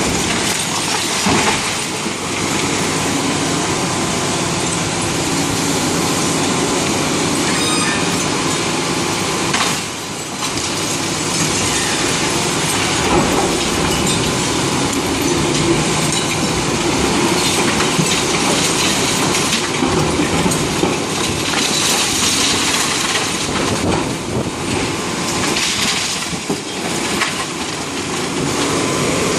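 Loud, continuous clatter and crunching of concrete rubble and debris being broken up and falling as a concrete building is demolished.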